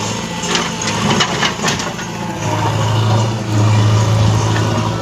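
Tractor engine running steadily with a deep, even hum, with loose rattles and knocks over it.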